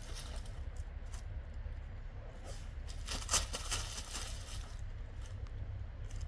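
Dog digging in soft dirt: irregular scratching and scraping of paws in the soil, busiest and loudest from about two and a half to four seconds in.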